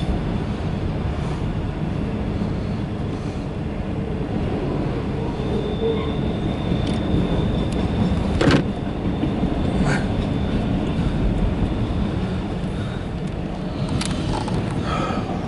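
Empty autorack freight cars rolling past: a steady rumble of wheels on rail, with a few sharp clicks and a faint high steady tone through the middle.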